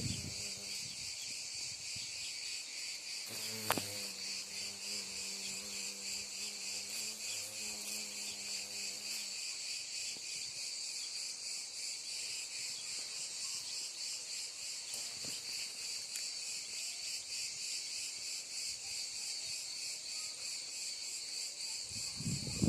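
Steady, high-pitched chorus of singing insects, finely pulsing. A low hum with a few pitches runs from about three to nine seconds in, and a single sharp click comes near four seconds.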